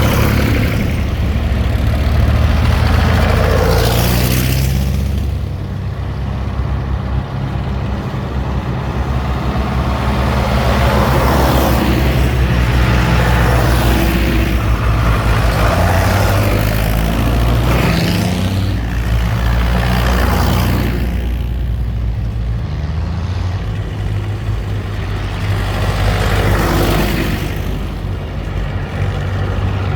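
A line of vintage tractors driving past one after another, their engines running with a steady low note. Each one swells and fades as it goes by, about five passes in all.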